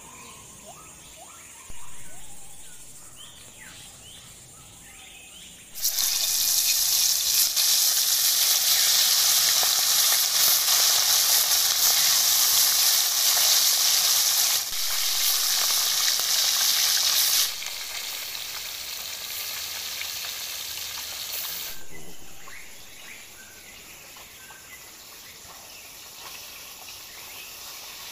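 Fish pieces sliding into hot oil in a wok: a loud frying sizzle starts suddenly about six seconds in, holds steady for about ten seconds, then drops to a softer sizzle and fades out. Faint insect chirping sits beneath it before the sizzle starts.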